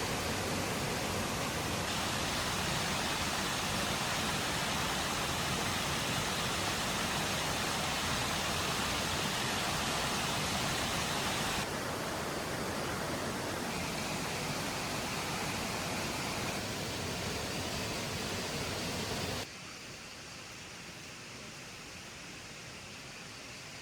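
Steady rushing noise spread evenly from low to high pitches, with no distinct events in it. It changes level abruptly several times and drops clearly quieter near the end.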